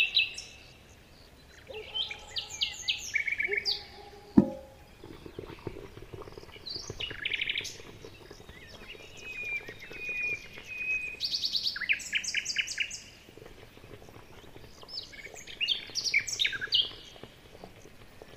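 Birds singing: repeated bursts of quick, high chirps and trills from several birds. One sharp knock about four seconds in is the loudest sound.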